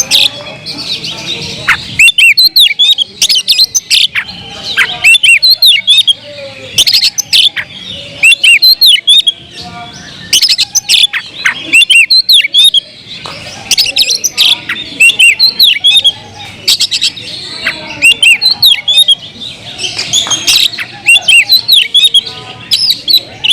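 Oriental magpie-robins (kacer) singing loudly in quick, varied bursts of sharp chirps and whistled sweeps, with several birds seemingly singing over one another.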